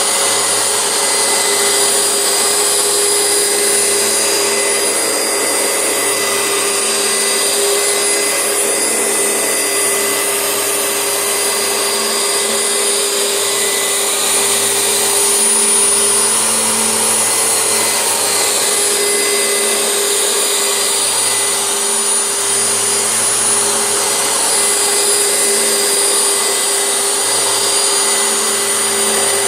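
Oreck upright vacuum cleaner running steadily, its soft-bristled brush roll working over carpet, with a slight rise and fall in its hum as it is pushed back and forth.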